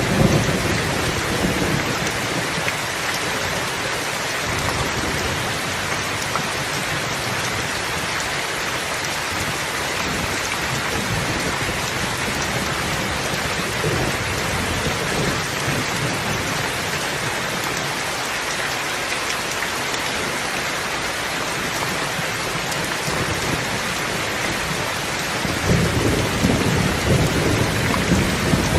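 Steady heavy rain, with low thunder rumbling as it begins, fading within the first second, and another roll of thunder coming in near the end.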